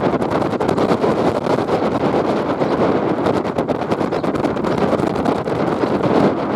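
Wind buffeting the microphone aboard a moving boat: a loud, steady rush with constant flutter.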